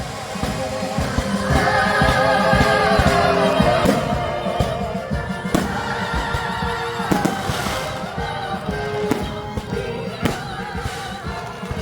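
Live operatic singing with a wide vibrato over orchestral music, cut through by many short sharp pops.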